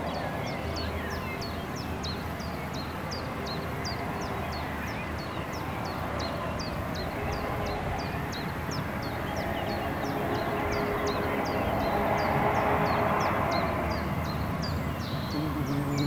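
A small songbird repeating a short, high, down-slurred chip note about three times a second, a little more sparsely toward the end, over a steady rushing background.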